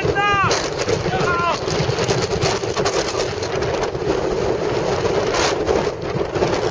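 Gale-force wind buffeting the microphone, a heavy, continuous rumbling rush that swells and eases with the gusts. A few short, falling pitched cries cut through in the first second and a half.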